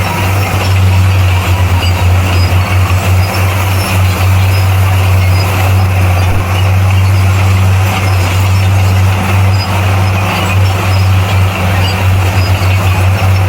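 Heavy diesel engine of earthmoving equipment running steadily, a deep even drone with no change in pitch.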